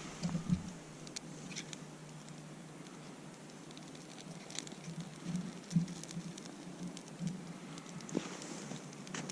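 Faint, irregular light crackles and taps over a low steady hum.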